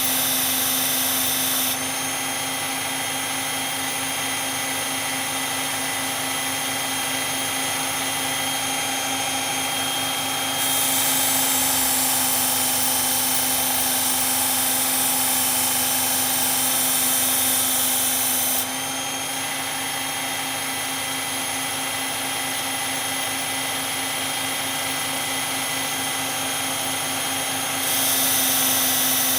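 Electric belt sharpener running steadily, its abrasive belt grinding a steel knife blade with a constant motor hum. The high grinding hiss steps louder and softer every eight seconds or so.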